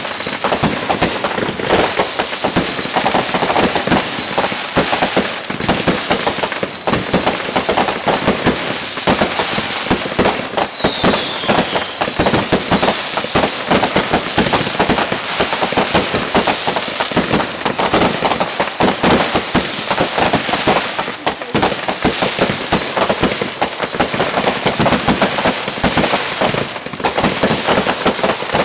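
Fireworks and firecrackers going off in a dense, continuous crackle of pops, with short falling whistles about once a second.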